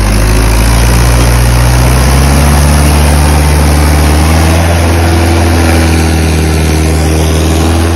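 Tractor diesel engine running loud and steady, its note climbing slightly over the first couple of seconds and then holding.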